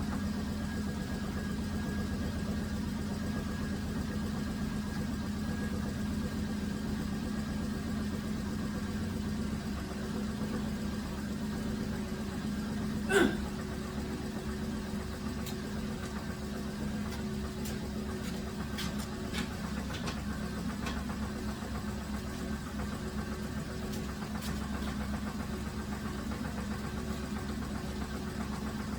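2007 Dodge Grand Caravan engine idling steadily with a knock that the owner suspects comes from loose torque converter bolts. One loud sharp clank comes about halfway through, followed by a few lighter clicks.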